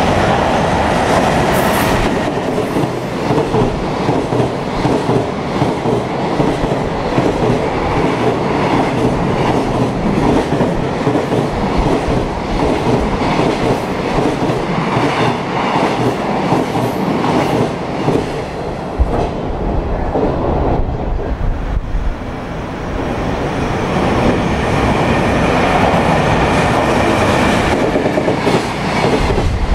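Electric-locomotive-hauled container freight trains running through a station at speed, wheels clattering over the rail joints as the wagons go by. A high steady tone sounds in the first couple of seconds. Around two-thirds of the way in the sound dips, then a second freight train passes.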